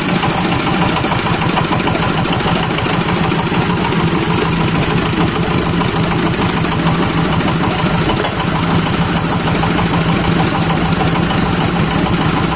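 Fish-waste grinding machine running steadily, a continuous even mechanical drone.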